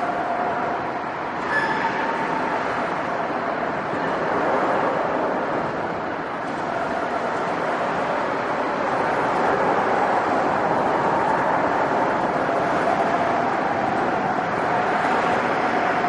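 Commuter train running past at close range: a steady rush of wheels on rail, with faint high tones of wheel squeal held through it.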